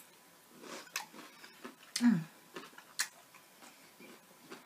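Close-miked eating sounds: a mouthful of pulled BBQ chicken being chewed, with sharp wet clicks of the lips and mouth about once a second. About two seconds in there is one short, falling hum from the eater's voice, the loudest sound.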